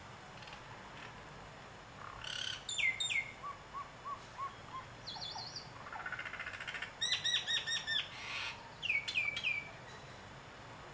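Birds calling in several short phrases: sharp downward-sliding whistles, a quick run of soft short notes, and a rapid string of repeated chirps, over a faint steady background hiss.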